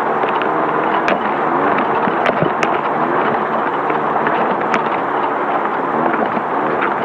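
Air-cooled 1600cc VW Beetle engine of a Class 5/1600 desert race car running hard, its pitch rising and falling again and again with the throttle. It sits over a loud, steady rush of wind and off-road noise, with a few sharp clicks and knocks from the chassis.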